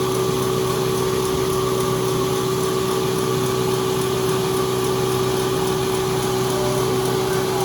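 Sawmill machinery running steadily with a constant hum, without a change in pitch or load.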